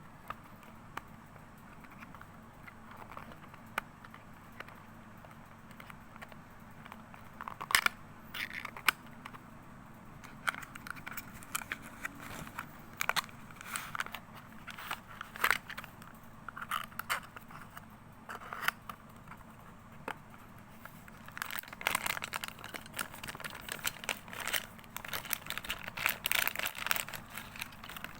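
Small toy car packaging being opened and handled: scattered crinkling, rustling and light clicks, sparse at first and busier in the last several seconds.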